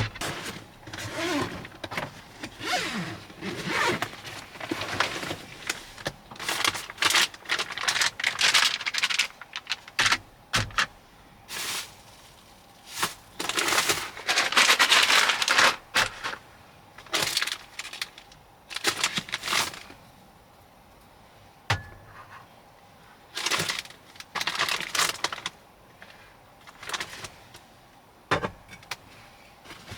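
Irregular rustling, clattering and sharp knocks of things being handled, in bursts of a second or two with short pauses between them. The longest burst runs for about three seconds, about halfway through.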